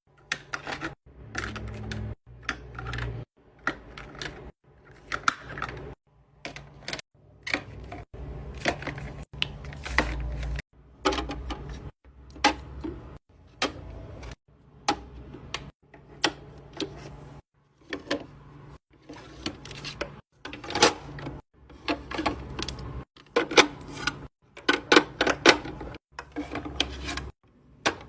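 Small plastic and glass skincare containers clicking, tapping and clunking as they are handled and set down, in short snippets of about a second that cut off abruptly. A low hum runs under some of the snippets.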